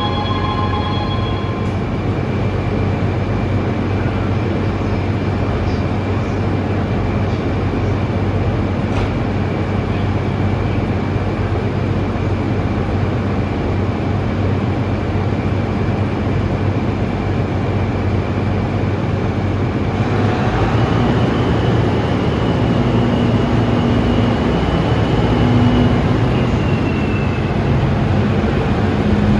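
JR Freight DD200 diesel-electric locomotive's diesel engine idling steadily. About two-thirds in the engine note rises and a high electric whine with stepping tones from its traction inverter and motors joins it as the locomotive begins to pull away slowly on a light notch.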